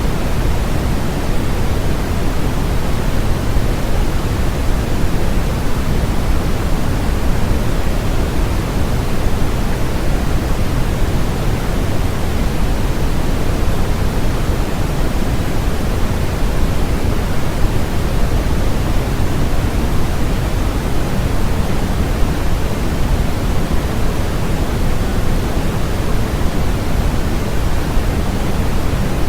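Steady, unchanging electronic white noise, an even hiss that is heaviest in the low end and thins toward the top.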